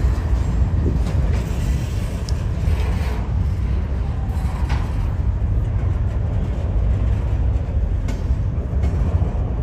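Diesel-hauled freight train of double-stack container cars rolling past close by: a steady heavy low rumble, with a few faint light clicks from the running gear.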